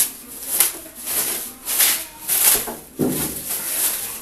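Microwave packaging being handled: a run of rubbing, scraping rustles, roughly one every half second to second, with a heavier knock about three seconds in.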